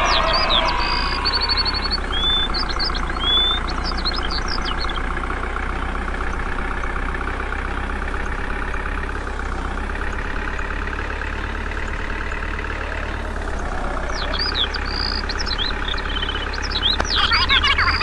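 A steady engine-like running sound. Bird chirps sound over it in the first few seconds and again near the end.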